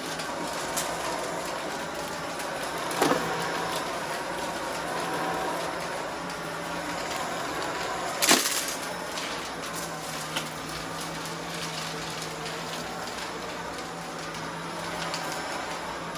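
Vacuum cleaner running steadily, with two sharp cracks about three and eight seconds in.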